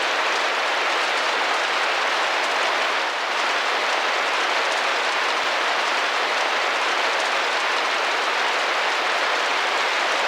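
Steady rain pattering on a window, an even hiss of many small drops with no single hits standing out.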